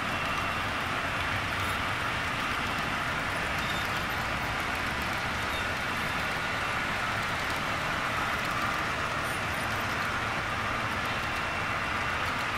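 HO scale model train running on the layout: a steady whir of the locomotive motor and the wheels rolling on the track.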